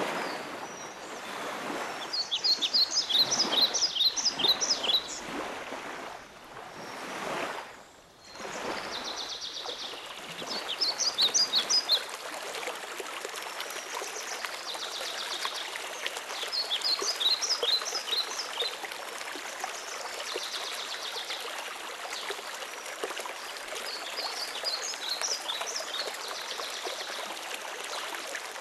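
A songbird repeats a short phrase of quick, high chirping notes every six or seven seconds over the steady rush of running water. The water surges louder for the first several seconds, then settles to an even flow.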